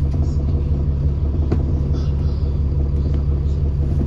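Alexander Dennis Trident double-decker bus running with a steady, loud, low rumble, and a faint tick about a second and a half in.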